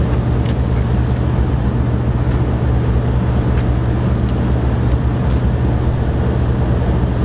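Steady low mechanical drone of a running motor, unchanged throughout, with a few faint light clicks of work on top.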